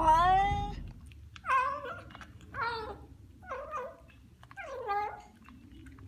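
A cat meowing over and over: five short, pitched meows about a second apart.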